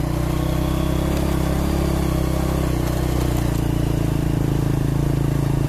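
Motorcycle engine running steadily under load as it climbs a steep concrete road, a low, even engine note throughout.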